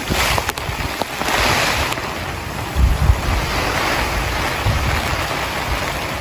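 Heavy rain pouring down in strong wind, a dense steady hiss, with gusts buffeting the microphone about three and five seconds in and a few sharp drop taps in the first second.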